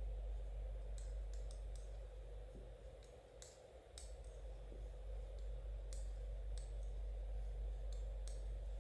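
Knitting needles clicking lightly against each other as stitches are worked, in short, irregular ticks about once or twice a second, over a steady low hum.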